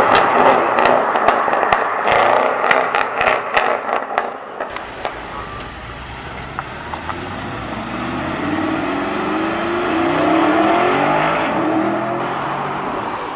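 A car's engine: a quick run of sharp pops, then the engine revving up and accelerating away through several gears, its pitch climbing in steps before fading.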